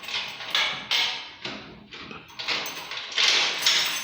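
A run of sharp knocks and thuds, about two a second, each dying away quickly.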